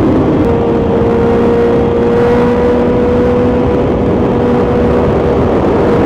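BMW S1000XR's inline-four engine running through an Akrapovic titanium full exhaust, heard onboard while riding. It holds a steady, loud note at constant revs; the pitch dips slightly just after the start, then creeps slowly upward.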